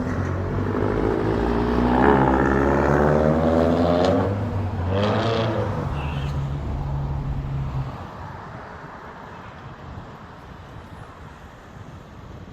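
A motor engine running with a steady low hum, swelling for a few seconds, then dropping away about eight seconds in, leaving quieter background noise.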